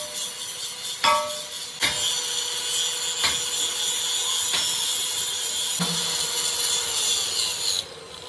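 Metalworking in a crankshaft machining workshop: a ringing metal strike about a second in, then a steady high scraping hiss of metal being worked for about six seconds, which cuts off shortly before the end.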